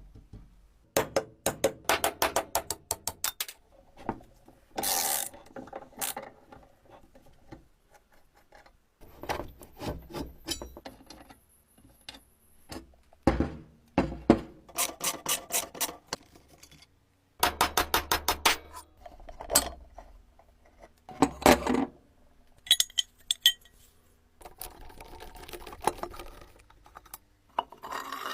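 Hand work on the metal parts of an antique coffee grinder: runs of rapid clicks and scraping or rubbing, broken by a few sharp knocks and short pauses.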